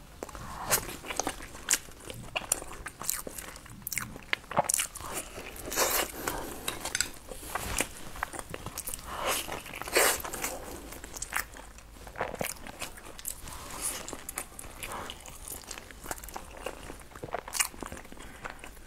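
Close-miked chewing and biting of a sticky-rice zongzi, full of irregular sharp mouth clicks, with one of the loudest about ten seconds in.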